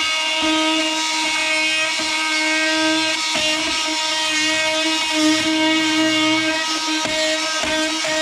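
Oscillating multi-tool running steadily with a high, even hum, its blade cutting under the old wooden roof framing of a truck camper. The hum dips briefly a few times as the blade loads up in the wood.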